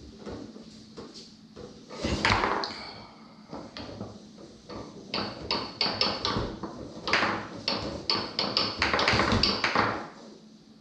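Foosball play on a Tornado table: rapid clacks and knocks as the ball is struck by the figures and rattles around the table, with the rods clacking. The play runs in quick flurries about two seconds in and again from about seven to ten seconds.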